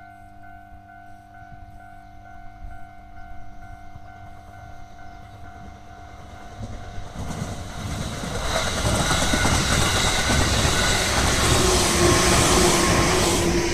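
Japanese level-crossing warning bell ringing in a steady repeating pattern. From about seven seconds in, a JR 211 series electric train approaches and passes over the crossing, its wheels clattering on the rails and growing loud enough to drown out the bell.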